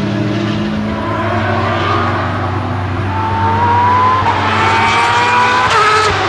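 Porsche 911 GT3-R (997) race car's open-exhaust flat-six accelerating hard. Its pitch climbs, steps down at an upshift about four seconds in, climbs again, then drops off near the end, over a steady low drone.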